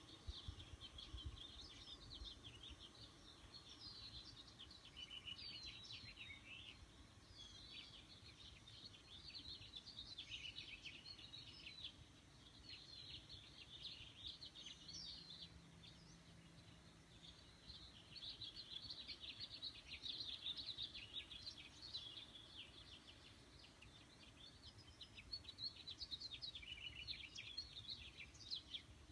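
Several small songbirds chirping and twittering in quick, high calls that come in bunches, faint against a low steady background.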